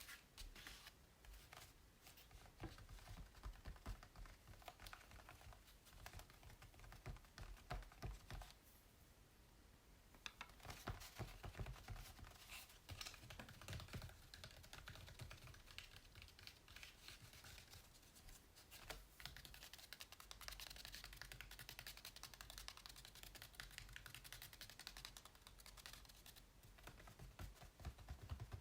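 Quick, light, faint taps on acrylic paintings on canvas, in rapid irregular runs mixed with rubbing strokes across the surface. There is a short pause about nine seconds in.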